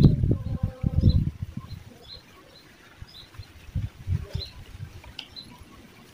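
A small bird chirping over and over, short high chirps about two a second. Low rumbles come through in the first second and again about four seconds in.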